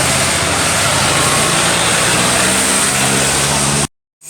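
A motor vehicle's engine running steadily, a constant low hum under a loud rushing noise; it cuts off abruptly near the end.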